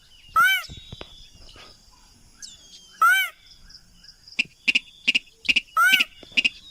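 Sintar (mandar padi rail) lure call: a loud note that rises and falls in pitch, repeated three times about three seconds apart, with a run of short sharp ticks between the second and third.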